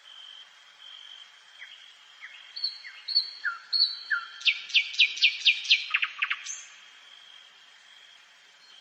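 A nightingale singing one phrase: a few rising whistled notes and held tones, then a fast, loud run of about eight sharp downward-sweeping notes, ending with lower notes and a brief high note. A steady, high, repeating trill continues in the background.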